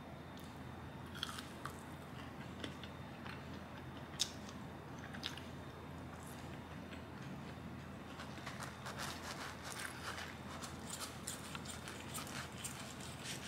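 Close-up crunching of a crisp fried onion ring being bitten and chewed. Scattered crunches come in the first few seconds, with one sharper snap about four seconds in, then a denser stretch of crackling near the end.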